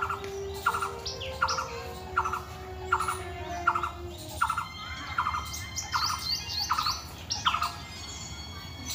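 A bird calling over and over, about three short calls every two seconds, with fainter higher chirps around it; the repeated calls stop near the end.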